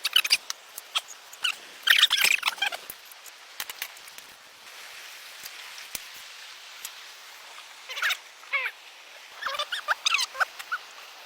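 Short, high chirping animal calls that bend in pitch, coming in several quick clusters with pauses between.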